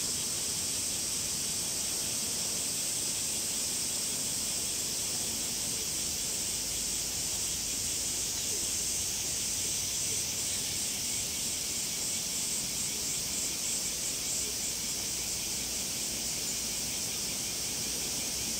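Cicadas calling in a steady high-pitched buzz, joined about halfway by a pulsing, rhythmic call.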